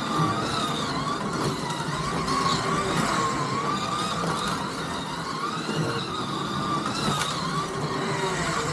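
Scalextric slot cars running round the track: high electric motor whine that rises and falls in pitch as the cars speed up and brake through the corners, over a steady rattle from the track.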